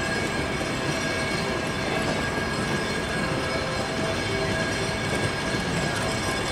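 Train running on rails: a steady rumble with a faint, steady high whine.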